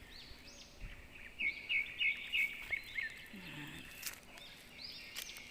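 Birds chirping and calling over a steady outdoor hiss, with a louder run of about six quick, sharp notes from about a second and a half to three seconds in.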